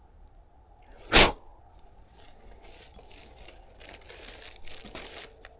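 Crunching and rustling of a freshly picked mushroom being handled and trimmed: one short, sharp crunch about a second in, then a few seconds of crackling and rustling.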